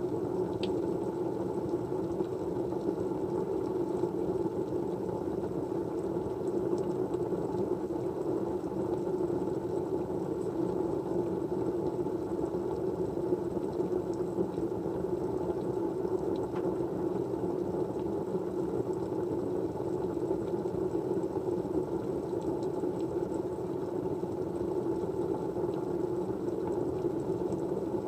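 Steady white-noise hum, even and unchanging, with a few faint ticks.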